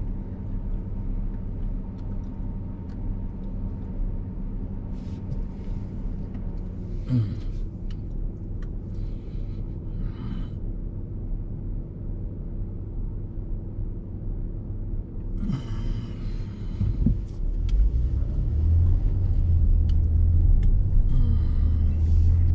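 Car engine idling, heard from inside the cabin as a low steady rumble with a faint hum. About eighteen seconds in, the rumble grows louder as the car pulls away and drives on.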